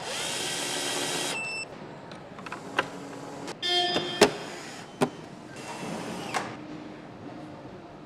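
Motorcycle assembly-line machinery and tools. A loud hissing rush lasts about a second and a half at the start. About four seconds in comes a short whirring burst with a sharp knock, then another hiss, with scattered clicks and clanks throughout.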